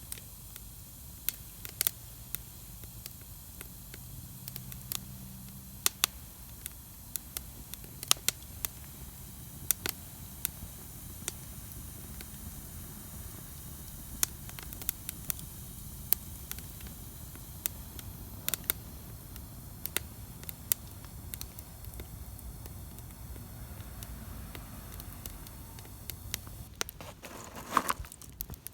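Wood fire burning in a Solo Stove Campfire fire pit: irregular sharp crackles and pops over a steady low rush of flame, with a short cluster of pops near the end.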